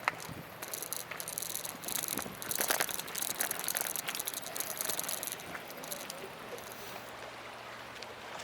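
Outdoor ambience: a high buzzing insect song that comes in on-off pulses and stops about five and a half seconds in, with a few scuffs or knocks and a faint low hum.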